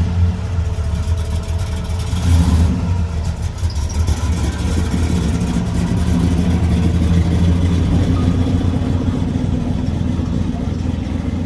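Car engine idling steadily, with a brief louder rev about two seconds in.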